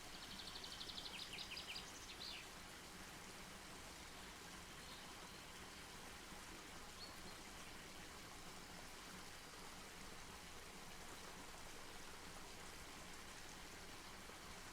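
Campfire burning, heard as a faint steady hiss. A brief high trilling call of rapid repeated notes sounds over it in the first two seconds.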